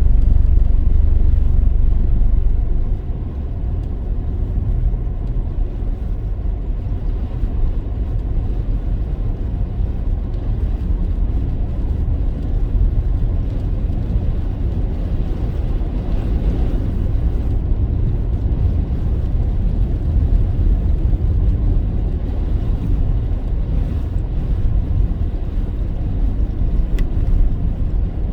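Car driving: a steady low rumble of engine and road noise, a little louder for the first few seconds.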